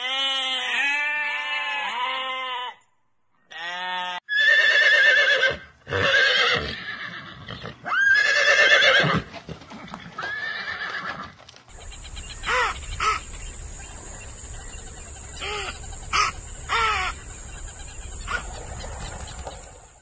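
Sheep bleating in several quavering bleats, then a horse whinnying in a series of loud calls. The last part holds a few short, softer calls over a steady hiss.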